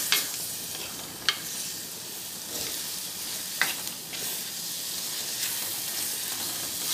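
Sliced onions and tomatoes with turmeric and chilli powder sizzling as they fry in oil. A metal spoon stirs and scrapes through them, with a few sharp clicks against the pot.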